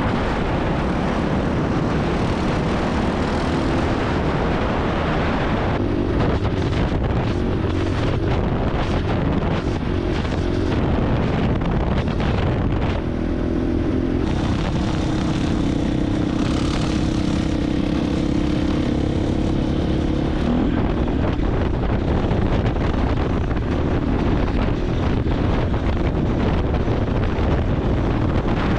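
Dirt bike engine running while riding, with wind rushing over the microphone; the engine holds a steady pitch for several seconds in the middle.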